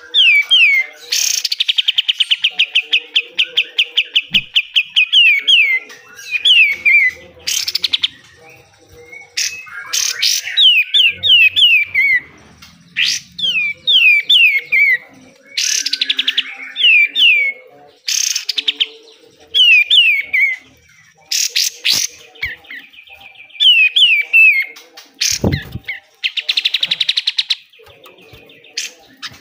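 Kapas tembak bulbul singing: loud harsh scratchy bursts, each followed by quick runs of two to four falling whistled notes, with a long fast rattle of repeated notes near the start. A single deep thump comes about 25 seconds in.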